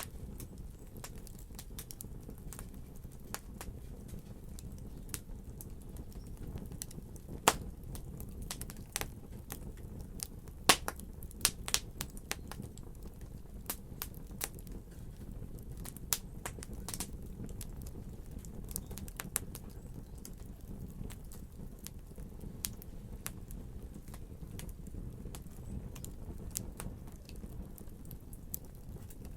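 Fire crackling in a fireplace: irregular snaps and pops over a low, steady rumble, with a few louder pops about a third of the way in.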